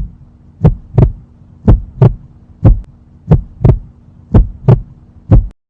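Heartbeat sound effect: paired lub-dub thumps about once a second over a steady low hum, cutting off suddenly near the end.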